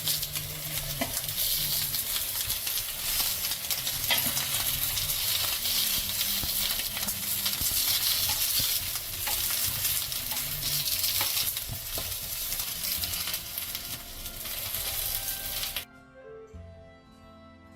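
Food frying in hot oil, a steady dense sizzle with a few sharp clicks. About sixteen seconds in it cuts off abruptly and soft music takes over.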